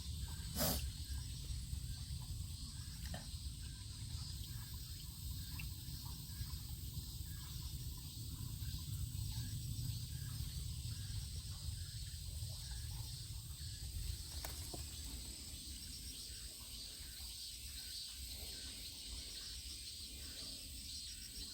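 Late-summer insects chirring steadily, with a constant high-pitched tone and a pulsing trill above a low rumble. A single sharp click comes about a second in.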